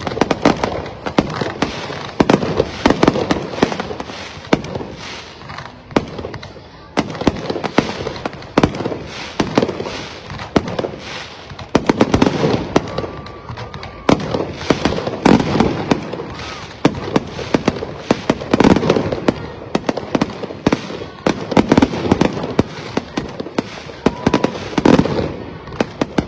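Rapid, continuous sharp bangs and crackles, many a second, swelling in waves every second or two.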